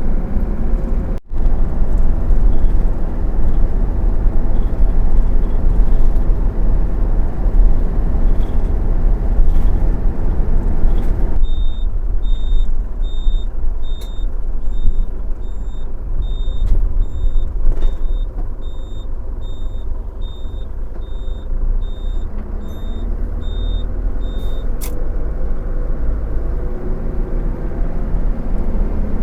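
Iveco bus camper on the move, heard from inside the cab: a steady low engine and road rumble. For about thirteen seconds in the middle, a high electronic beep repeats about twice a second.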